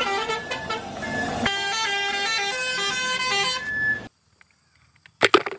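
Car-transporter truck's musical horn playing a tune of short stepped notes for about four seconds, then cutting off suddenly. A brief loud burst follows near the end.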